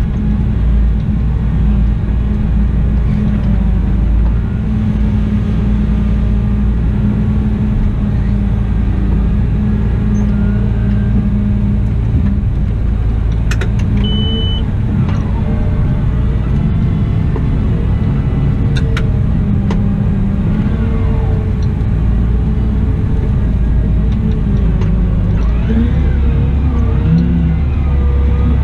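Cat 972M XE wheel loader's six-cylinder diesel engine running steadily at work, a loud low rumble whose note rises and falls near the end as the load changes. About halfway through there are a few sharp clicks and one short high beep.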